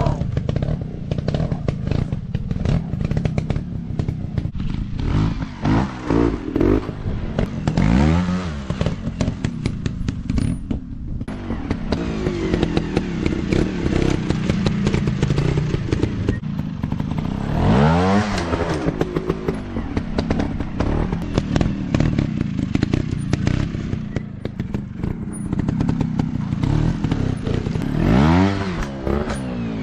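Dirt bike engines running off-road, revving up and back down several times, with a clattering, rattling mechanical sound throughout.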